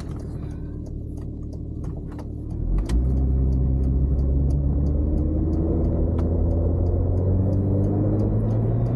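A motor vehicle's engine and road noise as it drives, a steady low hum that gets much louder about three seconds in, then climbs slowly in pitch as it speeds up.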